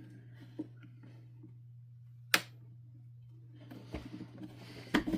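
Plastic parts of a canister vacuum being handled during disassembly: one sharp click about two and a half seconds in, then light knocks and rattling near the end. A steady low hum runs underneath.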